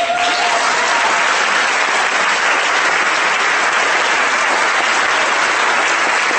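Large audience applauding, a dense steady clapping that starts suddenly and holds at full strength.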